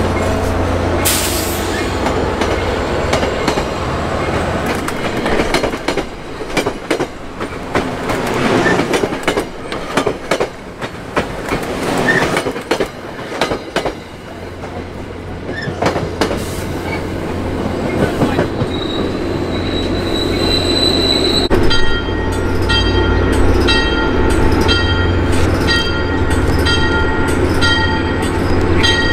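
MBTA commuter-rail train passing close by: the diesel locomotive's low rumble, then coaches rolling past with steady clicking of wheels over rail joints. A high wheel squeal rises about two-thirds of the way through, and after it a bell rings steadily, about two strikes a second.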